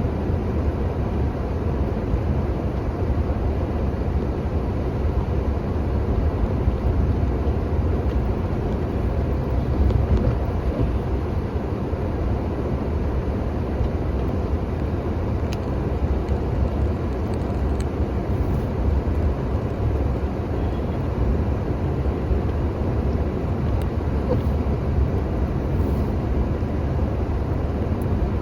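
An engine running steadily at an even speed, a constant low rumble.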